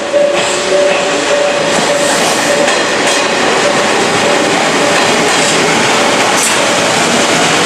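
A train runs past at a level crossing, a steady rushing rail noise with wheel clatter. Under it the crossing's electronic warning bell keeps ringing at about two strikes a second, clear at first and then half buried by the train.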